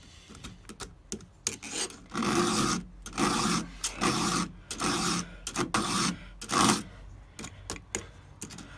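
4 mm round file rasping across a cutter tooth of a Stihl 200T chainsaw chain, sharpening it. About six even push strokes come in a row, roughly one every three-quarters of a second, starting about two seconds in, with fainter scrapes and small clicks around them.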